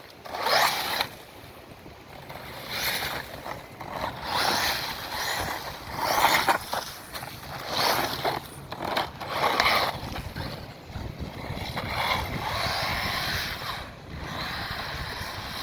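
4S Rlaarlo XDKJ-005 electric RC truggy driven in bursts of throttle over wet ground: motor and tyre noise swelling and falling away every second or two, with a longer steadier run near the end.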